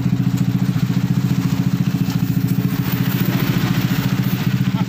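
Small motorcycle engine idling steadily, a low hum with a quick even pulse.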